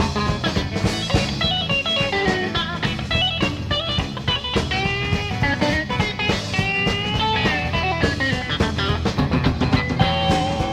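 Live rock band playing an instrumental break: a lead electric guitar plays a solo line with notes that bend and slide, over bass and drums.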